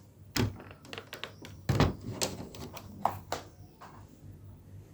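A run of separate knocks and thumps from things being handled, about a dozen strokes, with the heaviest thump nearly two seconds in.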